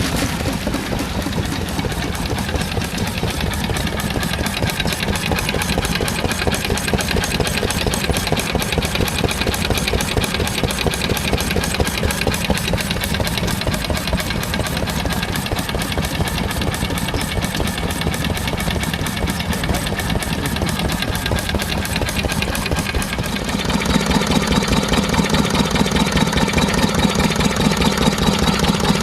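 Stationary engine running with a fast, even beat. About 23 seconds in the sound changes suddenly to a louder, deeper engine note.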